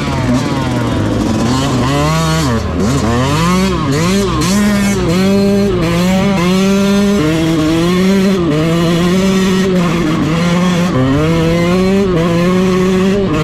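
Dirt bike engine revving hard, its pitch climbing and dropping again and again as the throttle opens and the gears change.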